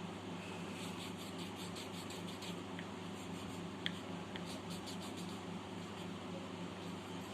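Graphite pencil scratching on paper in quick short strokes, with one small sharp click about four seconds in, over a steady low hum.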